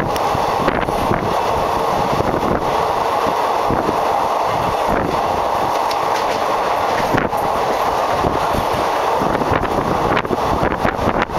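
Passenger train running at speed, heard from a coach window: a steady rumble and rush of wheels on the rails, with a few sharp clicks at uneven intervals.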